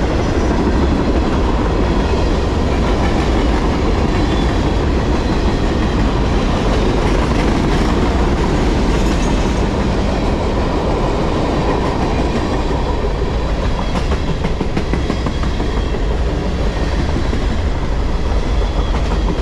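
Freight cars of a CSX mixed manifest train rolling past close by: steady, unbroken wheel-on-rail noise as car after car goes by.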